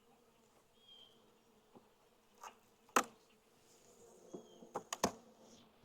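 Honeybees from an open hive buzzing as a faint, steady hum. A few sharp wooden knocks come about three seconds in and again near five seconds as hive frames are handled.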